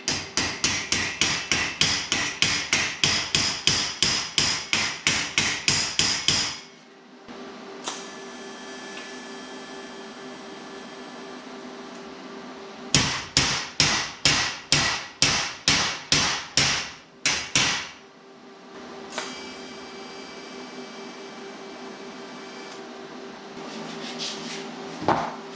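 Rapid, evenly spaced hammer blows on sheet steel, about four a second, in two runs: one of about six seconds, then a pause, then another of about five seconds. A steady hum continues between the runs.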